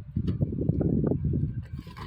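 Dull rumbling and rubbing as a bundle of felt-tip markers is pushed into a desk holder close to the microphone. It is loudest for the first second and a half, then eases off.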